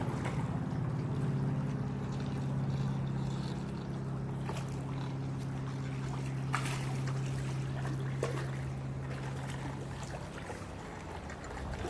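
Steady low machine hum that cuts off about ten seconds in, with a few sharp clicks along the way.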